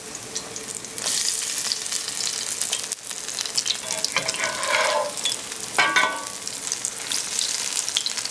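Crawfish fritters sizzling and crackling in hot oil in a skillet as a metal spatula flips them, with the spatula scraping in the pan about four to five seconds in and again around six seconds.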